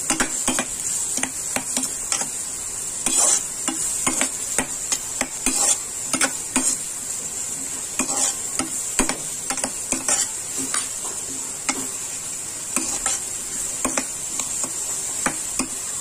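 Chopped onions and capsicum sizzling in oil and butter in a kadhai, with a steady hiss, while a spatula stirs them, scraping and knocking against the pan several times a second at an irregular pace.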